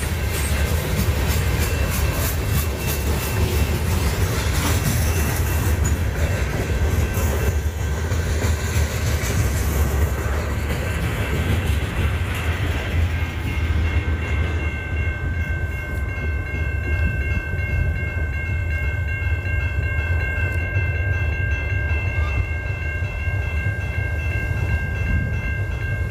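Long freight train rolling past, a heavy low rumble with wheels clacking rhythmically over rail joints in the first half. About halfway in, a set of steady high-pitched tones joins and holds.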